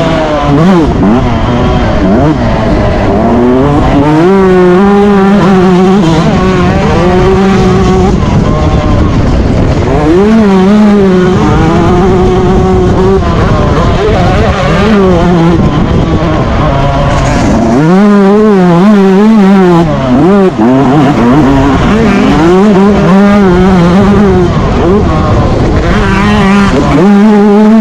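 Yamaha YZ125 two-stroke motocross engine at race pace, its revs repeatedly climbing, holding and dropping as the bike accelerates and backs off through the track's sections.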